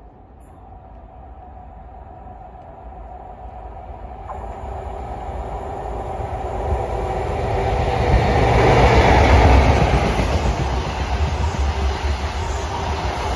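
A ScotRail High Speed Train with Class 43 diesel power cars passes through the station without stopping. A steady engine drone and the rumble of wheels on the rails grow louder as it approaches. The sound is loudest about eight to ten seconds in as the leading power car goes by, then the coaches roll past.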